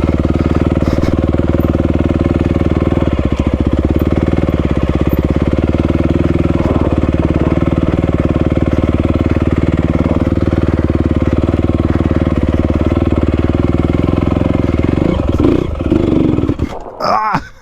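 Honda CRF250 single-cylinder four-stroke dirt bike engine running at a steady speed, then faltering and cutting out near the end: a stall that the rider puts down to being in the wrong gear.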